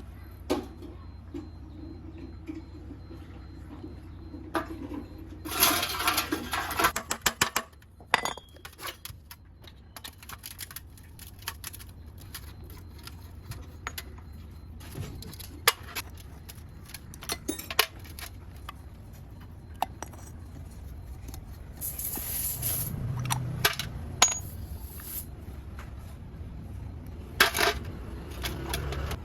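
Small metal motorcycle carburetor parts clinking and tapping as they are handled, with a few short hissing bursts.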